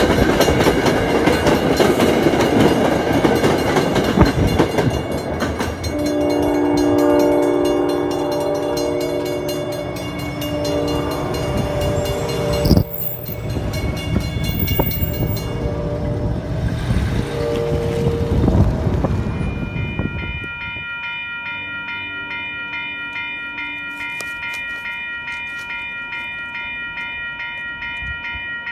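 MBTA commuter rail train rumbling over the grade crossing on steel wheels, then its horn sounding several long blasts as it pulls away. From about two-thirds of the way through, a crossing warning bell rings steadily with a fast, even pulse.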